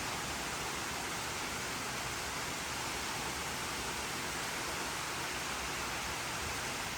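Steady rain falling: a constant, even hiss with no individual drops standing out.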